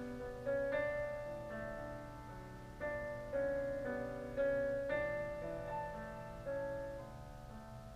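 Piano music playing without dropouts, picked up by a GoPro's built-in microphone.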